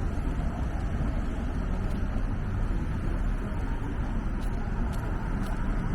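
Steady city street traffic noise: passing cars and other vehicles.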